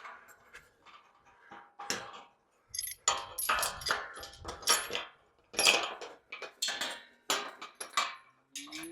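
Irregular metallic clanking and rattling, louder from about three seconds in. Right at the end a cow starts to moo.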